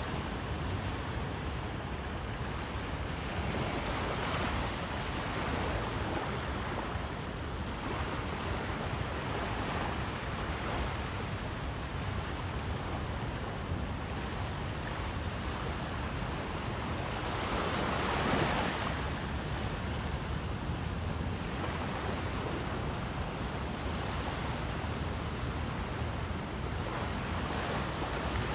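Surf washing ashore: a steady rush that swells and eases every few seconds, the biggest swell about two-thirds of the way through.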